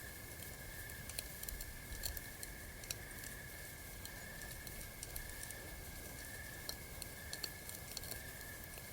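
Campfire crackling: irregular sharp pops and snaps, several a second, over a soft steady hiss, with a steady high tone from the forest-night background underneath.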